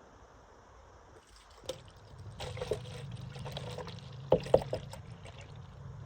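Old engine oil pouring steadily from the generator into a container, starting a couple of seconds in. There are a few sharp metal clinks, the loudest two close together past the middle.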